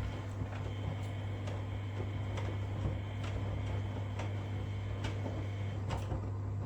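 Front-loading washing machines running a 40 °C wash, the drum turning the laundry with irregular light knocks and clicks over a steady low hum.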